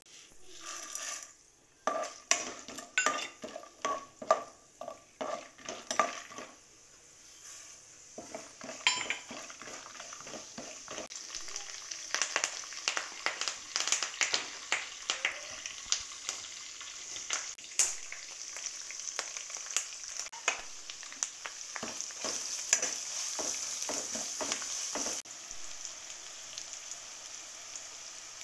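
Tempering of peanuts and dals frying in hot oil in a wok, stirred with a metal spoon. A quick run of spoon knocks against the pan comes first, then a steady sizzle builds with scrapes and clicks from the stirring.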